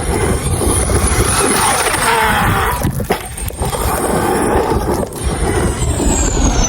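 Traxxas XRT electric RC monster truck being driven hard: a high brushless-motor whine over a loud rushing noise, with brief drops around three and five seconds in, and the whine sliding down in pitch near the end.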